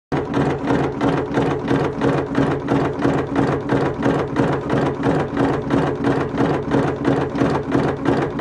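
R45 cigarette rolling machine running: a steady motor hum with the mechanism cycling evenly, about three to four strokes a second.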